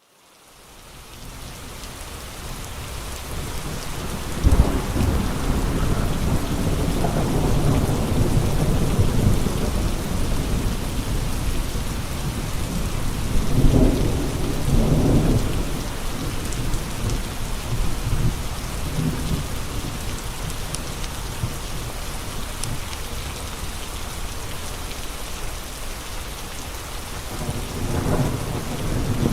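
Steady heavy rain with gusting wind, fading in over the first couple of seconds. Deep rumbling swells rise several times, the sharpest about four and a half seconds in, others around thirteen to fifteen seconds and near the end.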